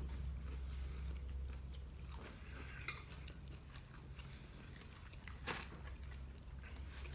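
Soft mouth sounds of chewing breaded fried chicken, with faint crunches and cutlery clicks, over a steady low hum; one sharper crunch or click about five and a half seconds in.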